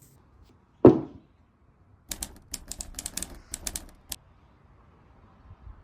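A single loud thump about a second in, then a quick, irregular run of about a dozen sharp clicks lasting about two seconds.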